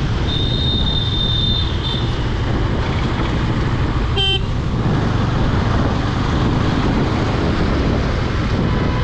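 Road noise while riding a KTM Duke 250 in city traffic: a steady rumble of engine and wind throughout. A vehicle horn toots briefly about four seconds in, and a thin high whine sounds for a second and a half near the start.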